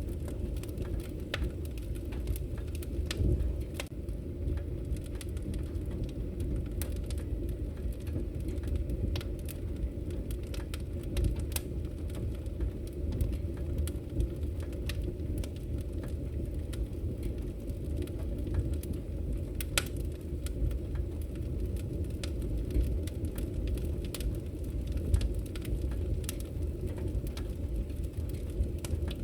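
Wood fire burning in a fireplace: a steady low rumble of flames with frequent irregular sharp crackles and pops of the logs.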